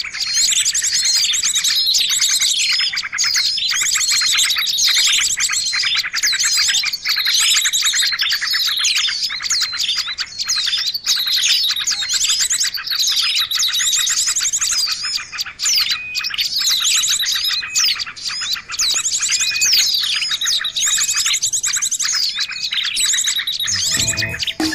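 Small songbirds chirping and trilling densely over one another, fast repeated chirps and rapid trills without a break: a lure recording used to call small wild birds in.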